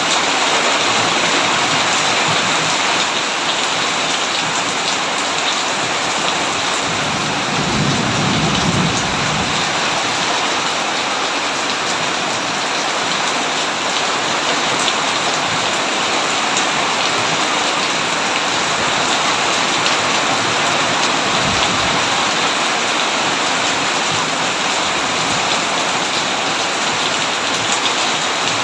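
Heavy rain pouring steadily on a tin roof. A low roll of thunder rumbles about a quarter of the way in, and a shorter, fainter rumble comes a little past the middle.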